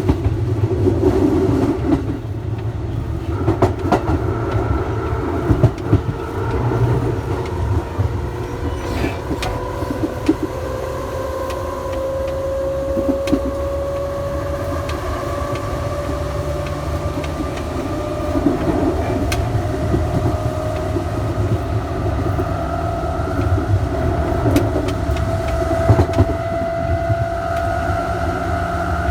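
Electric train's traction motors whining under power, the whine climbing slowly and evenly in pitch as the train gathers speed, over a steady rumble of wheels on rail with a few scattered clicks.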